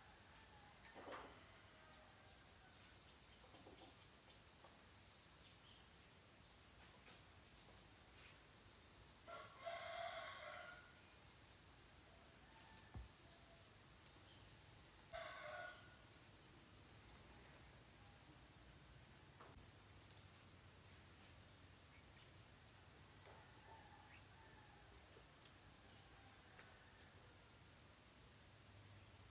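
Insects chirping steadily in high, rapidly pulsing trains a few seconds long with short gaps, like crickets. A rooster crows twice, about ten and fifteen seconds in, with faint bird calls now and then.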